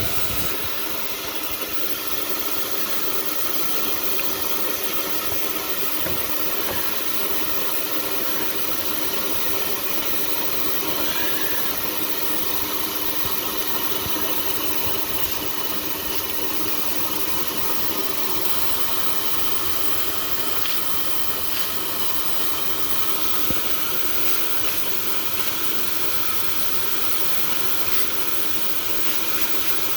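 Cheap blower running steadily with a constant motor whine and rushing air, blowing into a car's cold exhaust system to pressurize it so a leak can be found.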